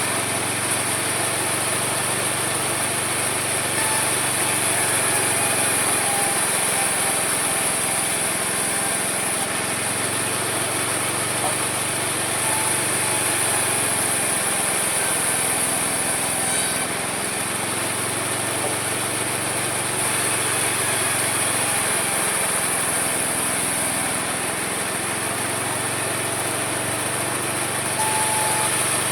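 Homemade mini sawmill running steadily while sawing wood. A constant high whine rides on top, and the lower note swells and dips slightly every few seconds.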